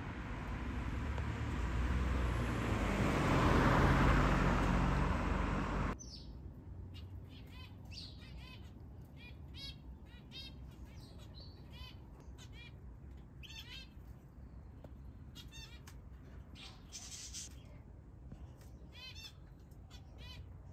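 A rush of passing traffic swells and then cuts off abruptly. It is followed by small birds chirping in quick repeated series of short high notes over a quiet outdoor background.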